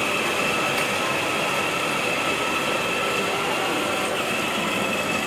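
Child's battery-powered ride-on toy car running, its small electric motor and gearbox giving a steady whine over the rolling noise of the wheels.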